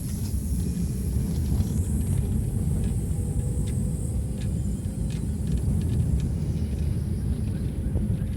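Low, steady rumble of a vehicle moving along a rough road, with a few faint light rattles.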